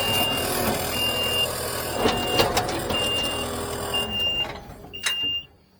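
A vehicle's backup alarm beeping about once a second over a running engine with some clanks and knocks. The engine noise drops away about four seconds in, while the beeping continues.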